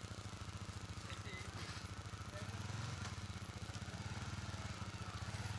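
Motorcycle engine idling steadily, a rapid even low pulse.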